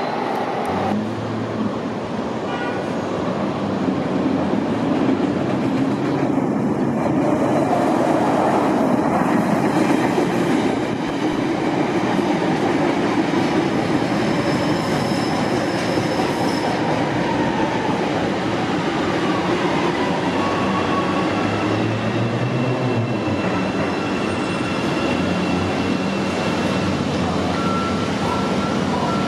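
A CTA 'L' rapid-transit train running on the rails, with a steady rumble of wheels on track and a few faint high, thin tones in the second half.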